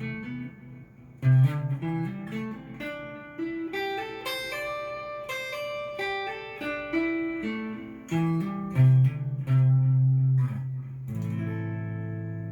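Korean-made Cort S-series electric guitar played through a Fender amplifier: a phrase of single plucked notes climbing higher in the middle, with some loud low notes, ending on a chord struck about eleven seconds in and left to ring.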